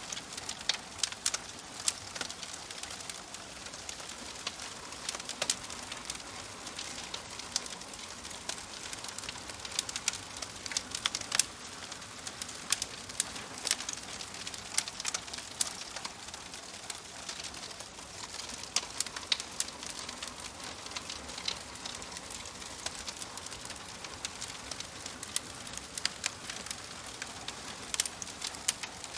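Wood fire crackling, with irregular sharp pops and snaps over a steady soft hiss.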